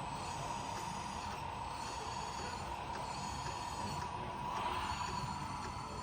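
Radio-controlled model truck running: a steady mechanical whine that swells slightly about two-thirds of the way through.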